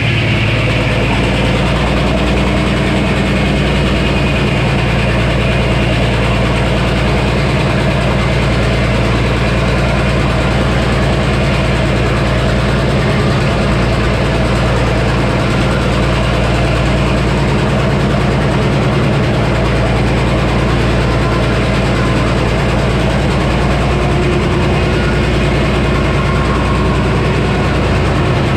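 Engine driving the Frick sawmill and its 48-inch circular saw, running steadily without any change in speed.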